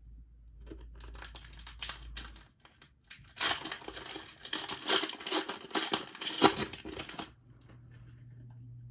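Packaging being torn and crinkled by hand, likely the foil wrapper of a Pokémon TCG booster pack being opened: a short bit of crinkling, then a louder run of crinkling and tearing lasting about four seconds.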